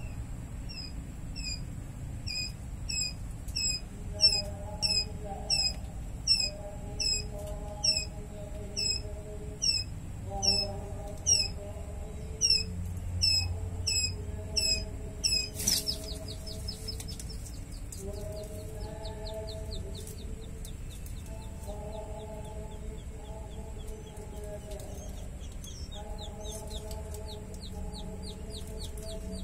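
Small birds chirping: a regular series of short chirps about twice a second, then after a sharp click about halfway through, a faster run of quick falling chirps. Lower drawn-out calls come and go underneath.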